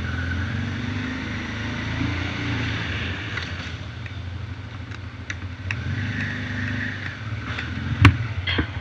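An engine running steadily, with small clicks and one sharp knock about eight seconds in.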